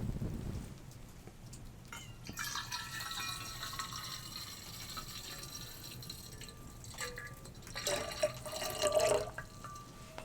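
Water being poured into a container: a trickling pour with a ringing tone, starting about two seconds in and at its loudest near the end.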